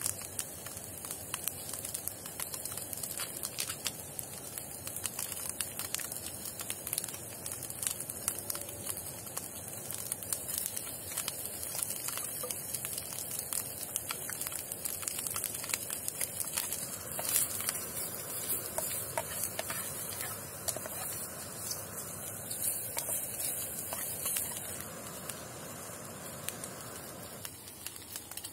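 Sliced meat sizzling in a pan on a portable gas canister stove: a steady frying hiss with many small crackles and pops, a little quieter near the end.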